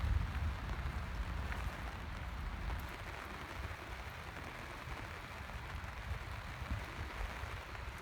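Steady rain falling, an even hiss of drops. A low rumble underneath is strongest for the first few seconds and then eases off.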